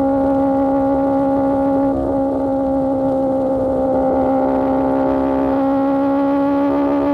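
Superbike engine through an Austin Racing GP1R exhaust, running at steady revs with a constant, unchanging note and a slight shift in tone about two seconds in.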